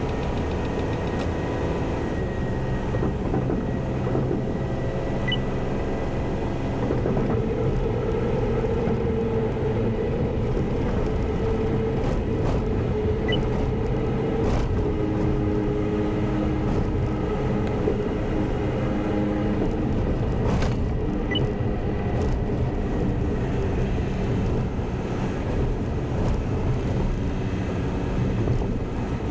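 Semi truck's diesel engine running with road rumble as the truck drives, its engine pitch changing a few times. Three faint short beeps come about eight seconds apart.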